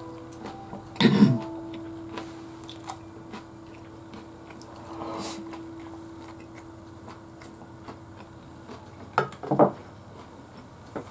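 A person chewing a mouthful of rice, eaten with chopsticks from a ceramic bowl. Sharp knocks stand out over the chewing: one about a second in, a softer one midway, and two in quick succession near the end.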